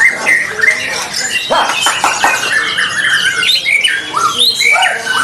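Several white-rumped shamas (murai batu) singing at once: many overlapping whistles, sweeping notes and quick runs of notes.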